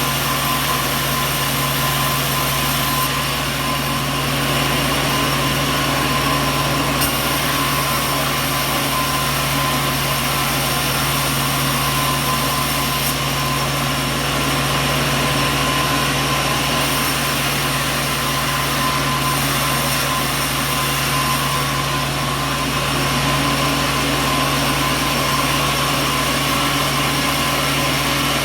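Sawmill machinery running steadily: a constant engine-like drone with a fixed low hum and a high whine, no cutting bursts or impacts.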